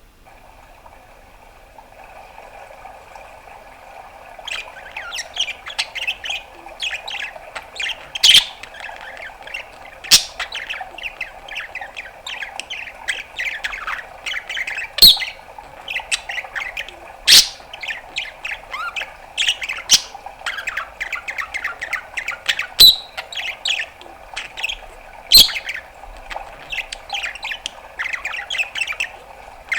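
Budgerigar warbling: a fast, busy chatter of chirps and trills, with loud, sharp pops every few seconds. The chatter builds up a few seconds in.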